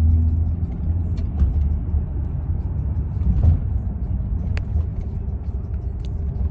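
Steady low rumble of a car in motion, with a few light clicks.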